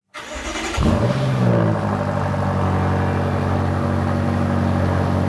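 BMW M8 Competition's twin-turbo V8 starting up: it catches, flares in revs about a second in, then settles into a steady idle.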